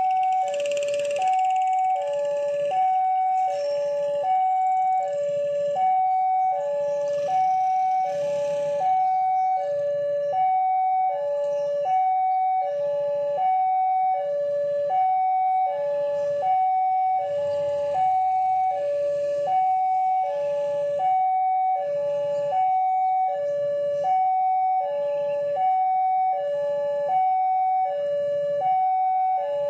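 Two-tone hi-lo warning siren alternating steadily between a lower and a higher pitch, each held for under a second.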